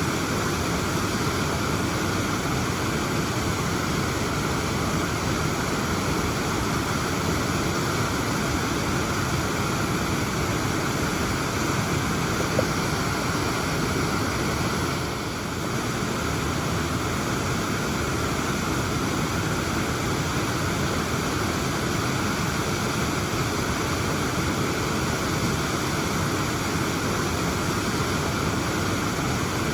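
Waterfall: a steady, even rush of falling water, dipping slightly in level for a moment about halfway through.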